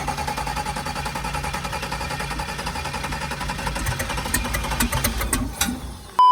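Car engine idling with a steady, even pulse, a few sharp clicks sounding in the second half.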